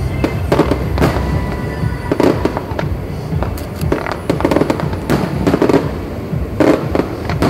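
Fireworks going off in an irregular string of sharp bangs, several a second at times, over a continuous low rumble of bursts.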